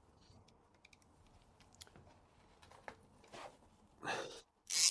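A few short hissing bursts from an aerosol spray paint can, the last three coming close together near the end, with small clicks and taps of handling between them.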